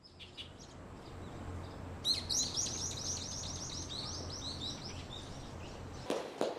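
A small songbird singing a fast run of high, quickly repeated chirps over a steady low background hum. A few sharp knocks come near the end.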